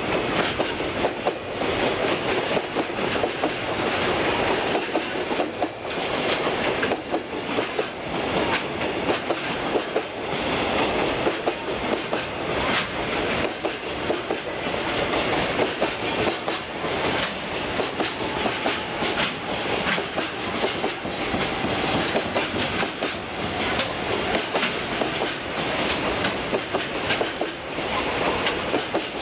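A freight train's loaded container flatcars (JR Freight Koki wagons) rolling steadily past, their wheels clattering over the rail joints in a continuous stream of clicks and rumble.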